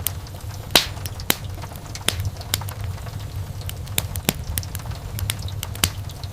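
Wood fire burning in a fireplace: a steady low rumble of the flames with irregular sharp crackles and pops from the burning logs, the loudest pop just under a second in.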